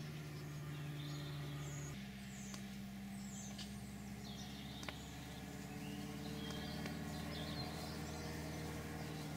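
Faint bird chirps over a steady low hum that steps up in pitch about two seconds in.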